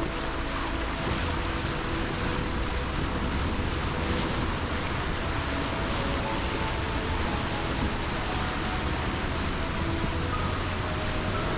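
Steady rushing noise of a Jeep Gladiator driving on the trail, tyre and wind noise with no distinct knocks, under faint background music.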